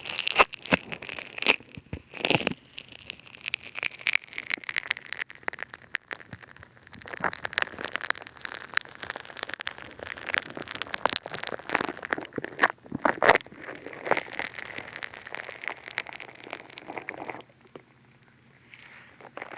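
Funny Foam bead clay squeezed and worked against a binaural dummy head's ear microphones: a dense, irregular crackling of many tiny pops. It stops suddenly near the end.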